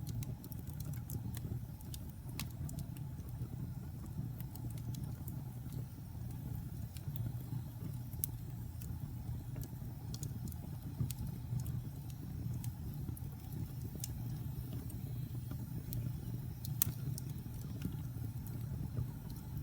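Log fire burning in a fireplace: a steady low rumble of the flames with scattered sharp crackles and pops of the burning wood, one louder pop near the end.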